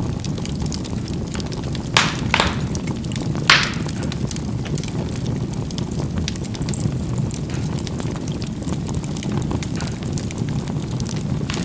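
Charcoal burning in a fireplace: a steady low rush of flame with scattered faint crackles, and sharp pops as the coals burst, two close together about two seconds in and another a second later.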